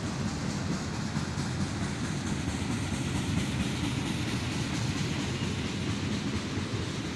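Freight train cars (tank cars and covered hoppers) rolling past on the rails: a steady low rumble with the faint repeated clack of wheels.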